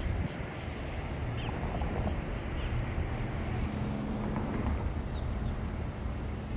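A steady low rumble, with short high bird chirps repeated about every half second through the first three seconds.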